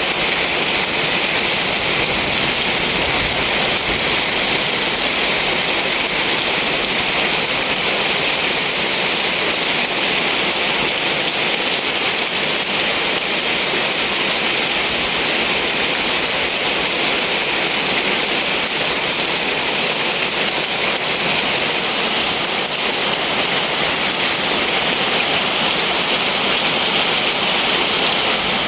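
Heavy rain pouring down in a steady, dense hiss that neither builds nor eases.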